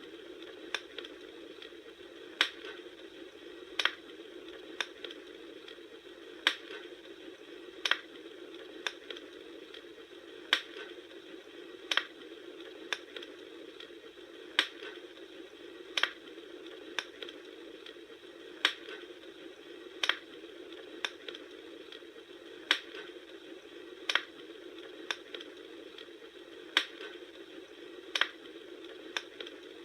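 Wood fire crackling: a steady soft hiss with sharp pops about once a second, spaced fairly evenly.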